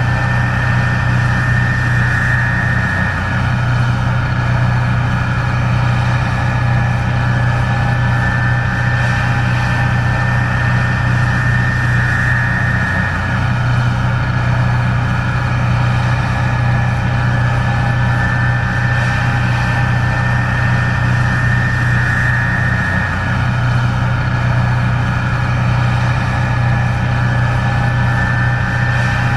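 Case IH 1660 Axial-Flow combine running steadily while harvesting corn: a constant engine drone with a high whine from the machine that swells slightly about every ten seconds.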